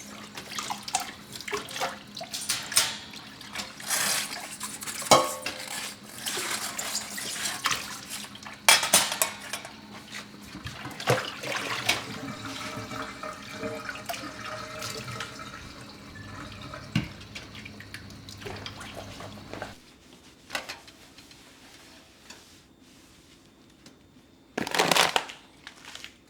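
Dishes being washed at a kitchen sink: water running from the tap with frequent clinks and knocks of dishes and utensils. It goes quieter for the last few seconds, apart from one short rush of noise near the end.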